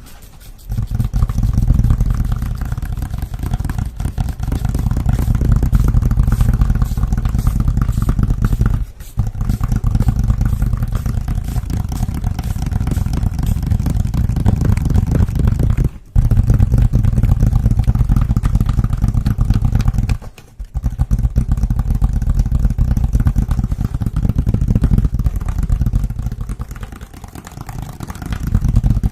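Close-miked ASMR hand sounds: fast, continuous scratching and rubbing with a heavy low rumble, stopping briefly three times.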